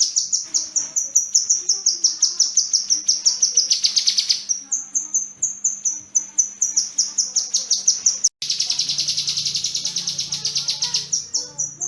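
Kinoi bird singing long rapid strings of sharp, high, slightly falling chirps, about seven or eight a second. There is a brief pause about four seconds in and a split-second cut just past eight seconds.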